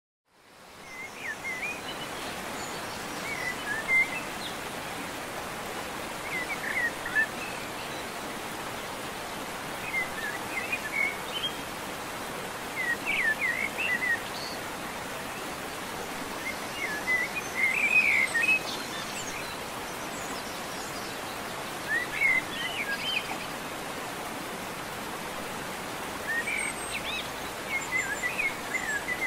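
Birds chirping in short clusters every few seconds over a steady rushing background noise, which fades in at the start.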